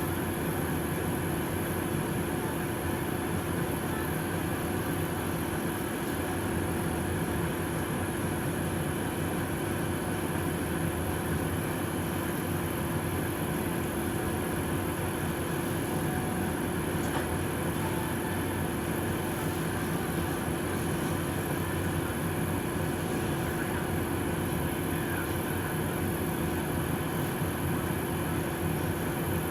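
Cabin sound of a PAZ-422320 Citymax 9 city bus running, heard from inside: a steady drone of engine and road noise with a constant hum.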